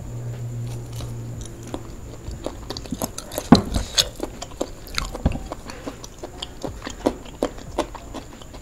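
Close-up eating sounds of fried duck eaten by hand: biting and chewing, with a run of sharp crunches and mouth clicks, the loudest about three and a half seconds in.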